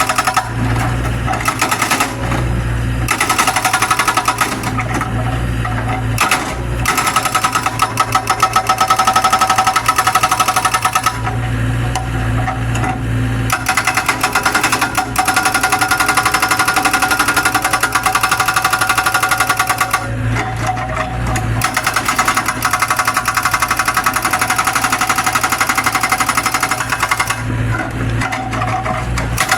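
Zoomlion excavator's hydraulic breaker hammer pounding in long runs of rapid blows. It stops briefly three times, and in those pauses the excavator's diesel engine is heard running.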